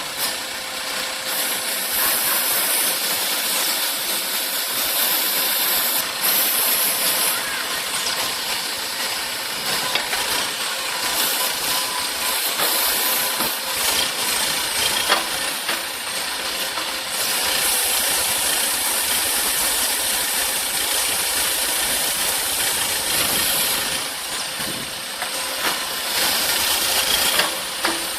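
Heavy-equipment engine running under a steady, loud hiss, with occasional light clicks and rattles.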